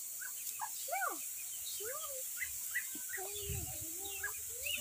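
Birds calling: many short, overlapping chirps that rise and fall in pitch, with a brief low thump about three and a half seconds in.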